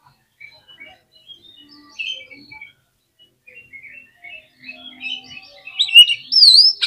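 Oriental magpie-robin (kacer) singing a fast string of short, varied chirps and whistles. Near the end it gets louder, with a few strong whistled notes that swoop up and down.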